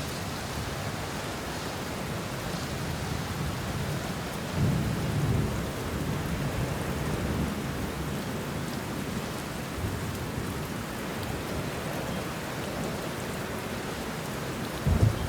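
Steady rain falling on banana leaves and bushes, with low thunder rumbling underneath; a louder rumble swells about a third of the way in and another right at the end.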